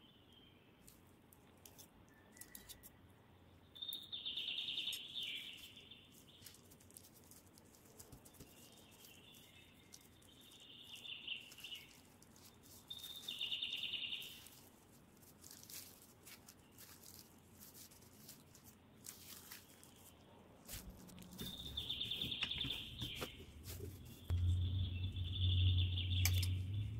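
Small bird chirping in short bursts of rapid high notes, five or so times, with faint clicks and taps from dough and utensils being handled. A steady low hum comes in near the end.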